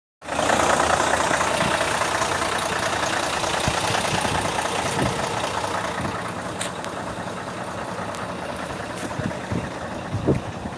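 Heavy truck engine running, loudest at the start and growing gradually quieter, with a few short knocks.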